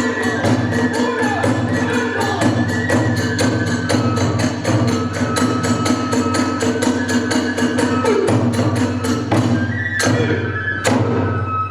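Kagura festival music: drum and tebyōshi hand cymbals beating a fast, even rhythm, about four to five strokes a second, under a held kagura flute melody. About ten seconds in the beat breaks off after two last strikes and the flute carries on alone.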